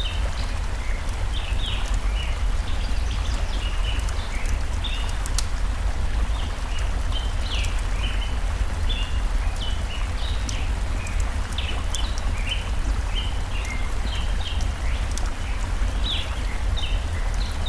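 Stream and campfire ambience: the steady rush of flowing water with a low rumble underneath, songbirds chirping in short falling notes several times a second throughout, and sharp crackle pops from burning logs here and there.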